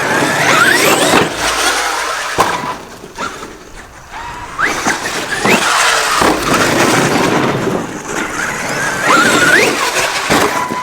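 Traxxas X-Maxx electric RC monster truck driving hard: its brushless motor whines up in pitch several times as it accelerates, over a noisy scrabble of tyres on dirt, with a couple of sharp knocks.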